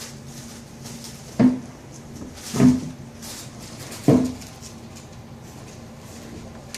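Puppies playing: three sharp knocks or bumps, the middle one loudest, with light scuffling between them, over a steady low hum.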